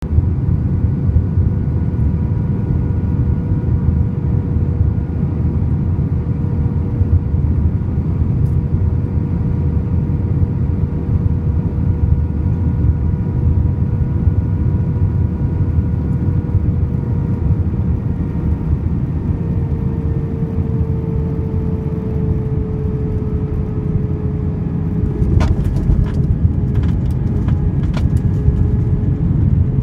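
Cabin noise aboard a JetBlue Airbus A320 on landing: a loud, steady rumble with an engine whine that slowly drops in pitch. Near the end come a few sharp knocks and bumps as the landing gear meets the runway.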